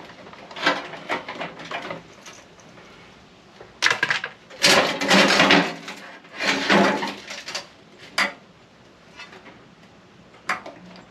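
Metal clattering, knocking and scraping as the parts of a microwave being taken apart with hand tools are handled. It comes in irregular bursts, loudest between about four and seven seconds in, with a sharp single click near the end.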